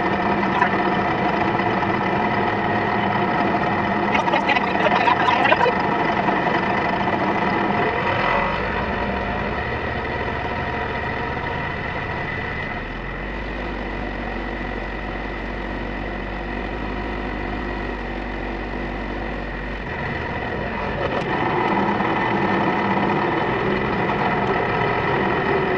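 Tractor engine running steadily while driving, with a brief rattle about four to five seconds in.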